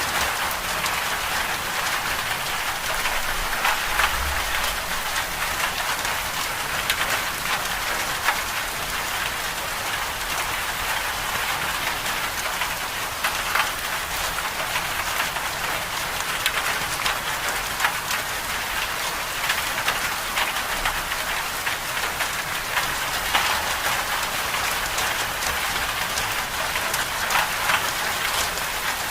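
Steady winter-storm ambience: a dense, even hiss of precipitation pattering on a surface, with many small ticks from individual drops or pellets.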